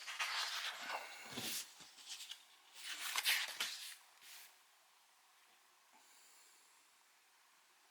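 Paper brochure pages being handled and turned: two rustling bursts in the first four seconds, the second the louder, then quiet handling.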